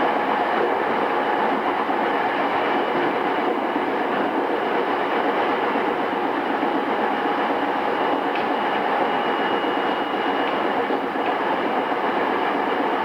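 Running noise heard inside JR East E217 series motor car MoHa E217-2006 in its original, pre-renewal state, travelling at a steady speed. A steady rumble with faint even tones on top, holding level throughout.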